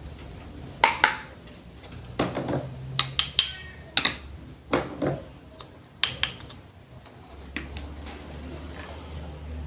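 Small kitchenware items being handled: a dozen or so irregular light clicks and taps, over a low steady hum.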